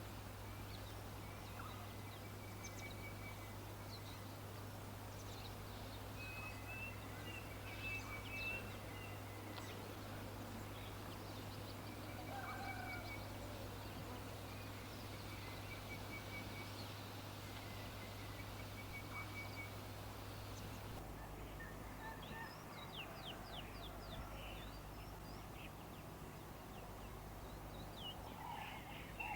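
Birds calling in short high chirps and quick repeated trills, over a steady low hum, with louder, lower calls near the end.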